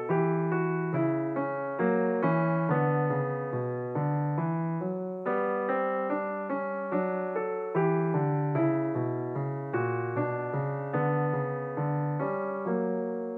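Background music: a piano-like keyboard playing a steady run of single struck notes, each fading after it is played, about two to three a second.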